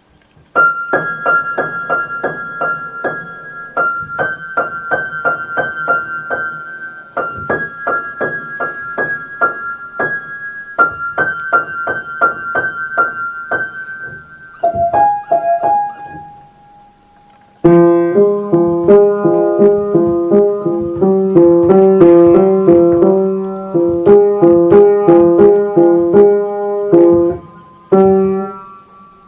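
Piano keyboard playing: a fast run of quickly repeated high notes for about fourteen seconds, then, after a short pause, a louder, lower melody in chords.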